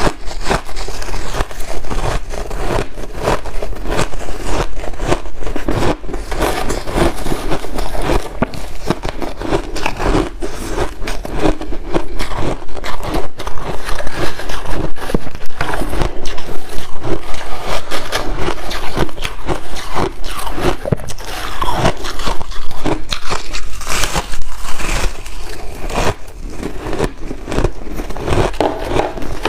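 White ice being bitten and chewed, a loud, continuous run of crisp crunches and crackles.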